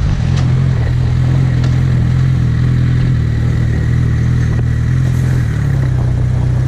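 Suzuki GSX650F's inline-four engine running at steady revs.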